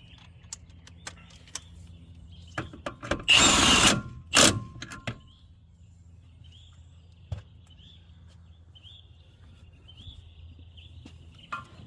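A hand-held power tool runs in a short burst of about half a second, then a briefer second burst, among scattered clicks and knocks of tool work. Birds chirp faintly in the background.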